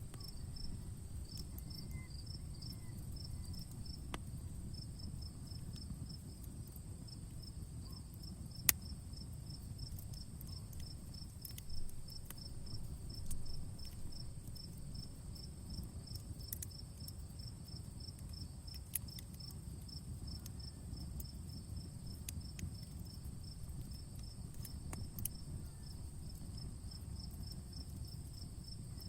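Outdoor campfire crackling, with a low steady rush of flame and a few sharp pops, the loudest about nine seconds in. An insect chirps steadily, about three chirps a second.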